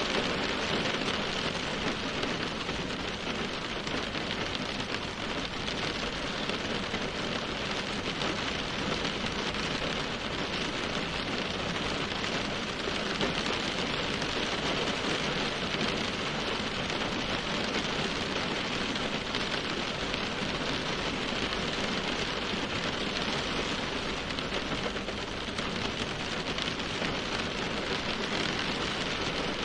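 Steady rainfall, an even hiss of rain on surfaces that holds at one level throughout.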